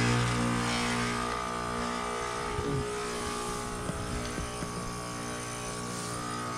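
Goodman heat pump outdoor unit running in winter, a steady hum made of several tones; its strongest low tone and overall level fade about two seconds in, then the hum holds steady with a few faint ticks.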